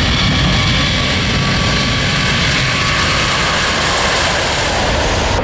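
Display aircraft's engines running as it flies past, a steady, dense roar with a faint whine that fades in the first second.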